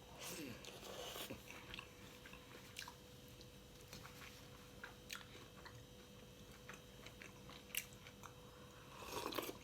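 A person chewing and biting food close to the microphone: scattered small crunches and clicks, with louder bouts of crunching near the start and again near the end.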